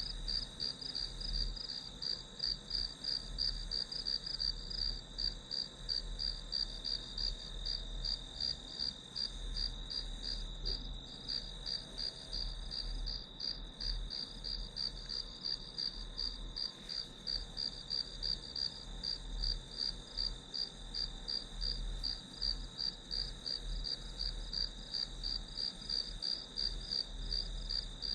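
Crickets chirping in a steady, even run of rapid high chirps over a continuous high-pitched ring from more insects.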